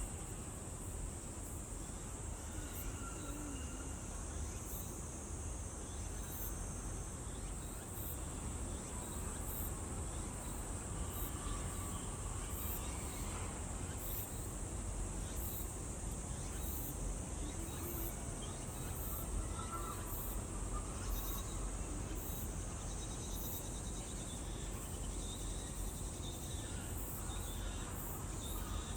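Steady chorus of insects chirring high up, with short pulses repeating about once a second above it.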